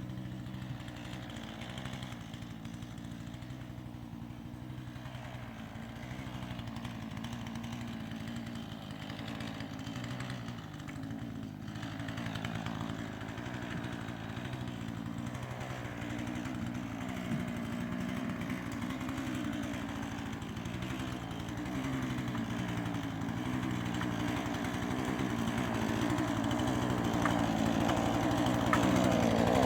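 Husqvarna 440e two-stroke chainsaw engine running at low speed, its pitch wavering slightly, growing louder toward the end.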